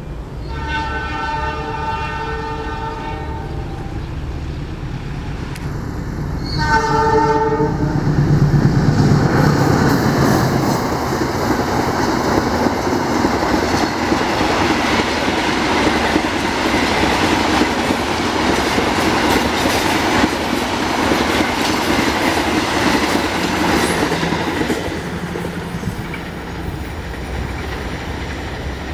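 Diesel locomotive horn of the Kertajaya passenger train sounded twice, a blast of about three seconds and then a short one, followed by the long train passing at speed with wheels clattering on the rails. The passing sound is loudest as the locomotive goes by and eases off near the end as the last coaches pass.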